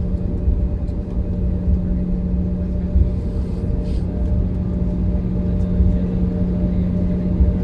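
Steady airliner cabin noise: the even hum of the jet engines and cabin air with a few constant tones over a low, uneven rumble.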